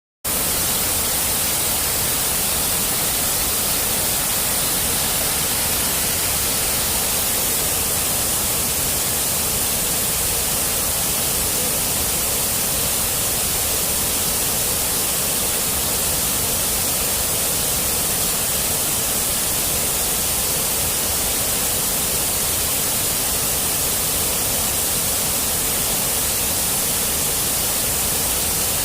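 Waterfall pouring, a steady unbroken rush of water with a strong flow.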